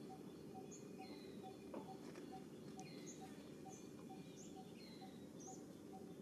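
Faint outdoor ambience of small birds chirping, with short falling calls and a few quick rising ones, over a soft note that repeats evenly about twice a second.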